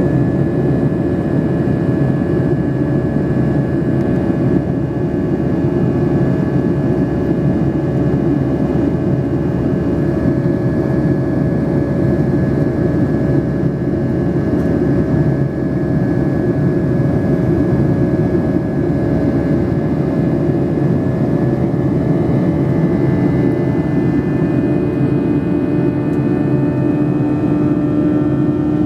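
Inside the cabin of a Boeing 737-800 in flight: the steady rush and hum of its CFM56 jet engines, with a tone that rises slightly near the end.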